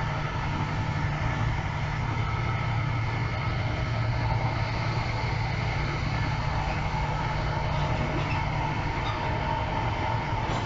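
Steady running noise of a passenger train heard from inside the carriage: a constant low rumble with a faint steady hum over it.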